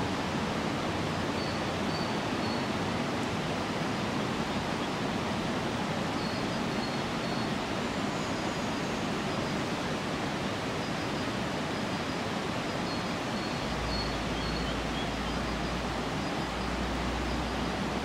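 Steady rushing of a fast-flowing river, with faint short high peeps now and then and a low rumble in the last few seconds.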